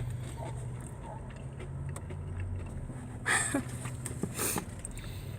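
Steady low hum of a car idling, heard from inside the cabin, with two brief louder noises about three and four and a half seconds in.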